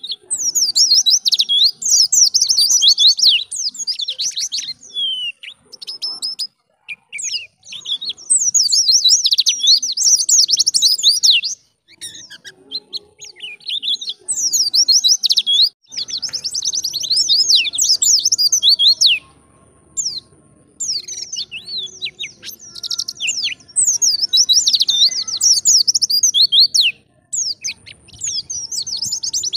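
White-eye (pleci) singing a fast, chattering song of high twittering notes, in phrases of a few seconds with short pauses between them, about six phrases in all.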